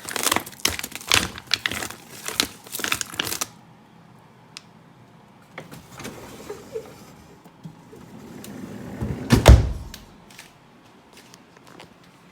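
Containers and items clattering and rattling as a refrigerator drawer is handled for a few seconds. Later a short sliding rumble ends in one heavy thud about nine and a half seconds in, as the Samsung French door refrigerator is shut.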